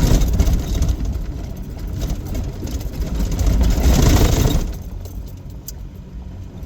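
Vehicle driving, engine and road noise rumbling steadily, dropping in level sharply about four and a half seconds in as it eases off.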